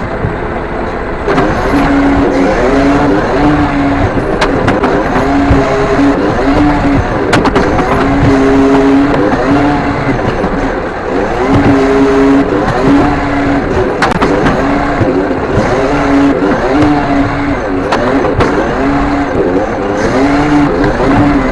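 Mercedes-Benz Econic side-loader rubbish truck working close up: the engine revs rise and fall while a hydraulic hum switches on and off over and over as the side arm cycles, with scattered knocks as bins are lifted and emptied.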